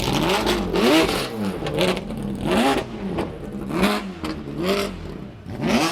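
Ferrari engine revved in several quick blips, each rising and falling in pitch.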